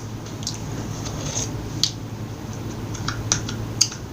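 Close-miked eating and food-handling sounds: a handful of small, sharp clicks and crackles spaced irregularly about half a second to a second apart, over a steady low hum.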